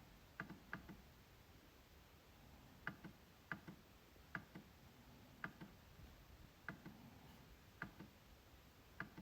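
MacBook trackpad being clicked: about a dozen short, sharp clicks at irregular spacing, some in quick pairs like double-clicks, faint against a quiet room.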